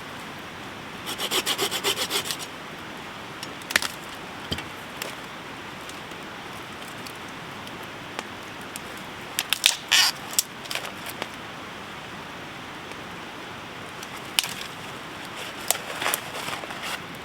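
Steady hiss of rain with a brief run of about ten quick rasping strokes about a second in, followed by scattered clicks and knocks.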